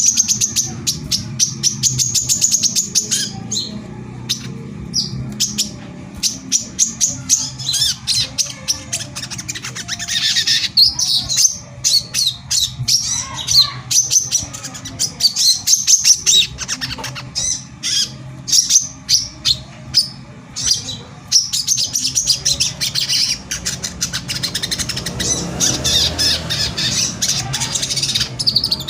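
Crimson sunbird (sogon) singing: long runs of very rapid, high-pitched chirps and ticking notes, over a steady low hum.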